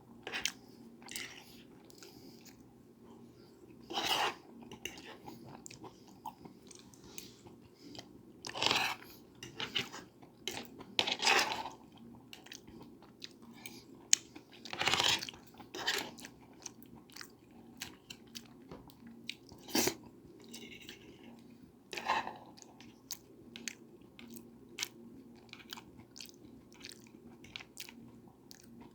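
Close-up chewing and mouth sounds of a person eating, with many small wet clicks and about six louder bites or chomps at irregular intervals, over a faint steady low hum.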